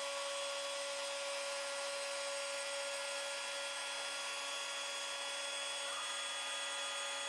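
Stepcraft M500 desktop CNC spindle running at a steady speed, a high whine made of several steady tones, as a 1/16-inch end mill cuts an inlay mortise in rosewood.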